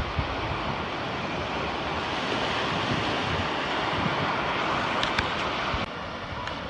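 Steady rush of lake waves breaking on the shore, mixed with wind on the microphone; the noise drops abruptly near the end.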